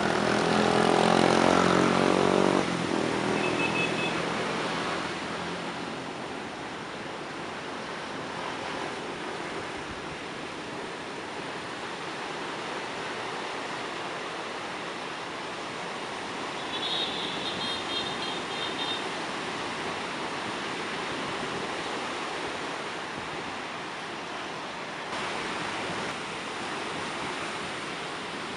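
Steady rush of rough surf and wind. A motor vehicle's engine passes loudly in the first few seconds, and there is a brief high-pitched sound about 17 seconds in.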